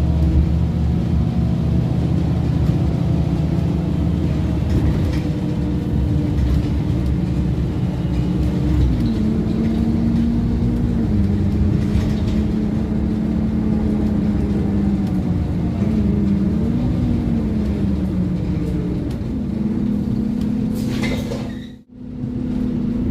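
Scania OmniCity N230UD double-decker bus's diesel engine running on the move, heard from on board, its pitch rising and falling several times as the bus speeds up and eases off. The sound cuts out abruptly for a moment near the end.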